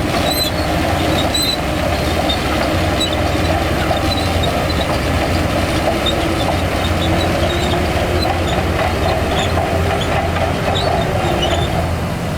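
Heavy diesel earthmoving machinery running steadily with a deep engine rumble, with scattered light metallic squeaks and clinks.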